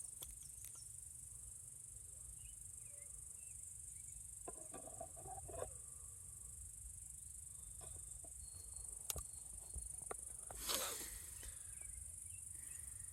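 Steady high-pitched chorus of insects, with a few faint clicks and short chirps and one brief rustling noise about eleven seconds in.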